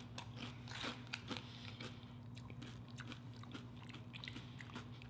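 A person chewing and biting crunchy tortilla chips: irregular crisp crunches. A low steady hum runs underneath.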